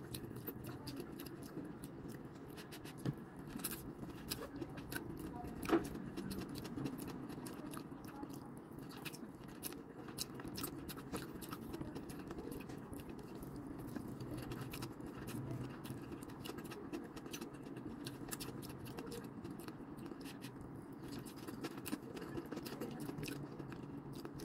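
Close-miked chewing and slurping of stir-fried rice noodles and cabbage: a steady run of small wet mouth clicks, with a few sharper clicks about three and six seconds in, over a low steady hum.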